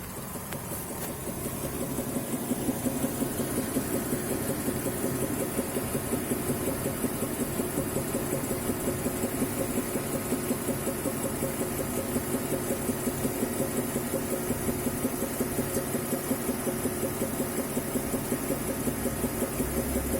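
Hot-idling BMW N55 turbocharged inline-six in an X5 E70, with a deep, fast, even knocking running through the idle. It grows louder over the first couple of seconds, then holds steady. The knock appears only once the car is fully hot after about 10 km of driving, and the owner cannot tell whether it comes from the engine, the 8-speed gearbox or the transfer case.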